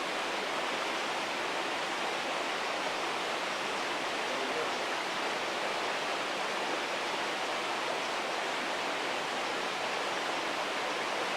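Steady rushing of the River Don's flowing water, an even hiss with no breaks.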